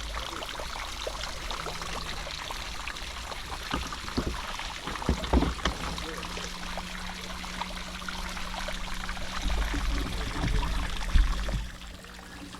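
Water running and pouring steadily, with a few short knocks about five seconds in and again near the end, and a steady low hum from about six seconds on.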